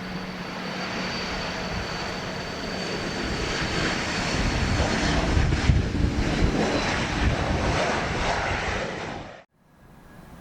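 Airliner's engines running loud as a plane passes by, the deep rumble building to its loudest in the middle, with a thin high whine in the first half. The sound cuts off suddenly near the end.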